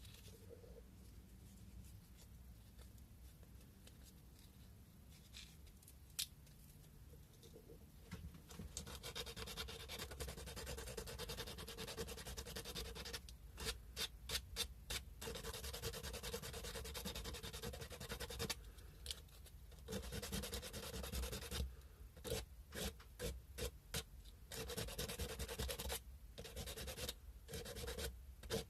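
Sandpaper rubbing on a cow-bone fish hook carving as it is hand-sanded. After a quiet stretch of several seconds, the rubbing starts and runs steadily, with runs of quick back-and-forth strokes and a few short pauses.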